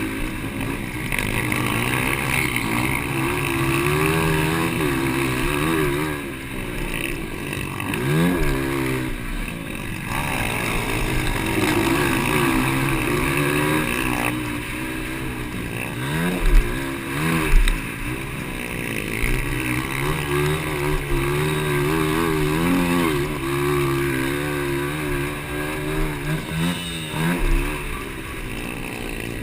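Motocross bikes in a 200cc race, their engines revving up and down over and over as riders work the throttle, sometimes several at once. About halfway through come two loud thumps a second apart.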